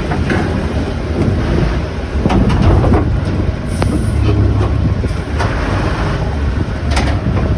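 Heavy container forklift's engine running steadily under load, with a few sharp metallic clanks as it handles a 40-foot shipping container.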